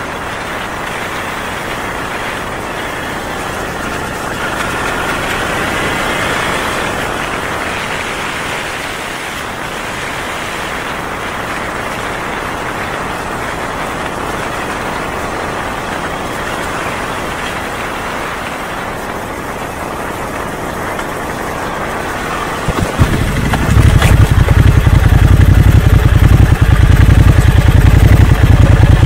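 Steady background noise, then about 23 seconds in a Honda Magna 250's V-twin engine comes in suddenly and loudly and keeps running with a deep, even low rumble.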